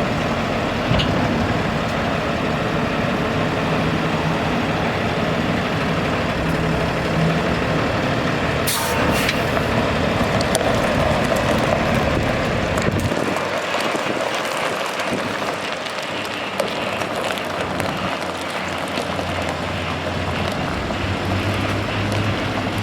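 Cummins B6.7L diesel engine of a Freightliner M2 dump truck running steadily. About halfway through, the deepest rumble drops away, and a steady low hum comes in near the end.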